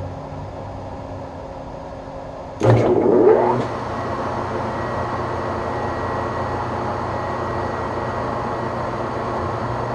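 A steady machine hum, then about two and a half seconds in the Webb Whacheon lathe's motor switches on with a sudden loud start and spins up with a rising whine over about a second. It settles into steady running in back gear at 200 RPM. It starts easily and sounds good, which the owner puts down to a lighter starting load in this gear.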